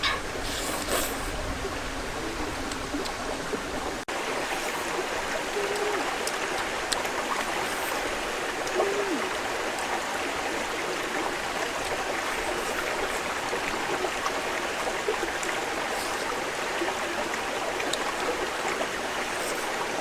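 Steady rush of flowing water, like a jungle stream, with a brief dropout about four seconds in.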